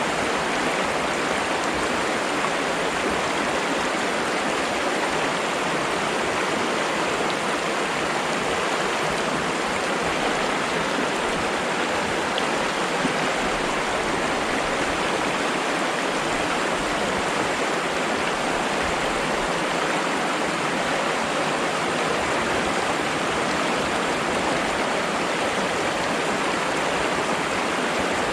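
Flowing water: a steady, unbroken rush of a stream or small cascade, with no change in level.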